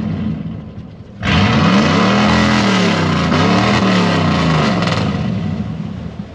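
Dodge mud truck's engine revving hard in four-wheel-drive low, cutting in suddenly about a second in and rising and falling in pitch twice before easing off, as the truck bogs in deep soft mud.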